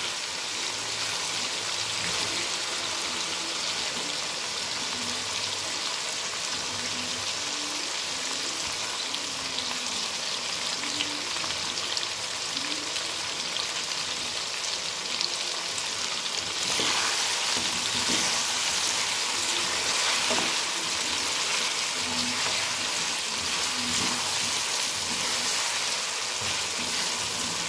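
Boiled chicken pieces and onions frying on high heat in a karahi, a steady sizzle, stirred and scraped around with a slotted plastic spatula. The sizzle gets louder a little past halfway through.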